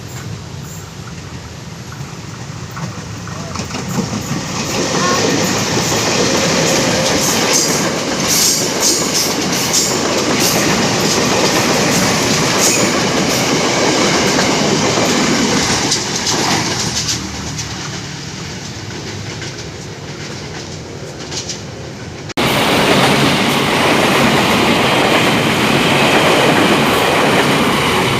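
Train passing at close range, its wheels clattering over the rails. The noise builds about four seconds in and stays loud, eases for a few seconds, then turns suddenly loud again near the end.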